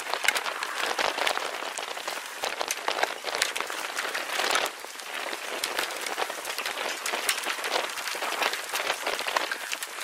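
Heavy rain pattering on a hard surface: a dense, steady hiss thick with sharp individual drop clicks, dipping briefly about halfway through.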